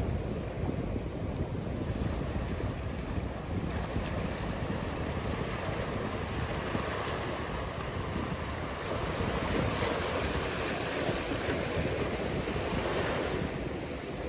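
Ocean surf: a steady rush of waves, swelling louder about nine seconds in as a wave breaks and washes through, then easing off near the end.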